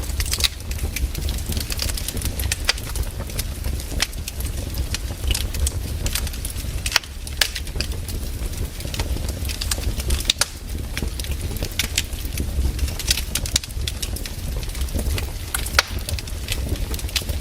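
Firewood burning in a fire, crackling and popping at irregular intervals over a steady low rumble.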